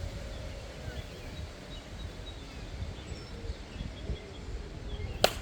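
Outdoor ambience with a steady low rumble and faint distant voices or chirps. There is one sharp crack near the end.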